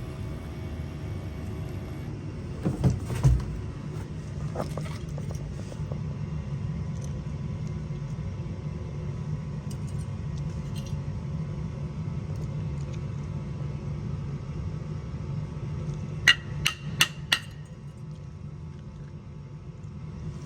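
Steady low machine hum during burner cleaning on a soot-fouled gas furnace. A couple of knocks come about three seconds in, and four quick sharp taps near the end.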